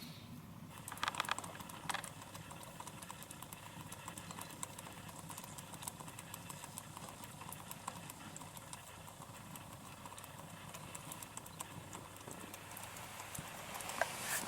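Wood fire crackling, with irregular sharp pops and snaps. There is a brief flurry of louder pops about a second in and again near the end.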